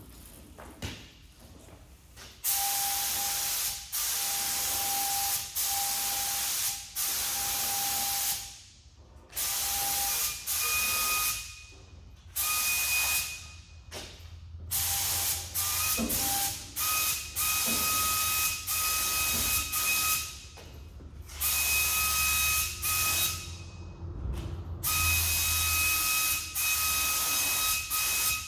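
Compressed-air paint spray gun spraying paint or primer in about fifteen short bursts of hiss, each one to two seconds long, as the trigger is pulled for each pass, with a thin whistle riding on the hiss.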